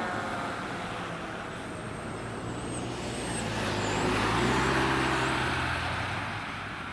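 A road vehicle drives past: engine hum and tyre noise grow louder to a peak about four and a half seconds in, then fade away.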